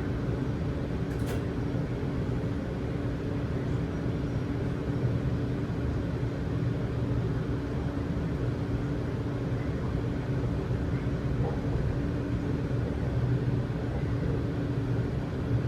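Sydney Trains electric suburban train: a steady rumble with a constant hum as it runs slowly into the platform, and a short click about a second in.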